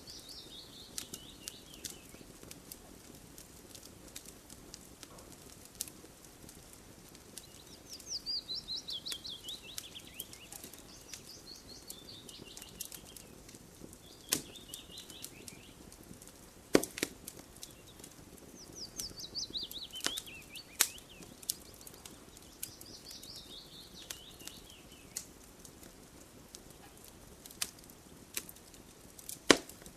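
Campfire crackling, with scattered sharp pops, a few of them much louder. A songbird sings a short trill that falls in pitch, over and over.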